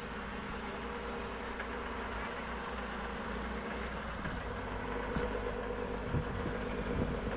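Tatra 813 truck's diesel engine running steadily at a low, even pitch.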